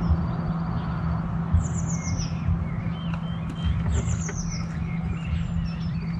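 Songbird singing: a short phrase of rapid, descending high notes repeated about every two to three seconds, with scattered chirps between, over a steady low hum.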